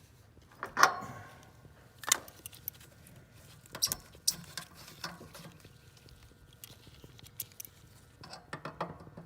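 Scattered sharp clicks and small metallic clinks of hand tools and small fittings being handled, with a quick cluster of taps near the end.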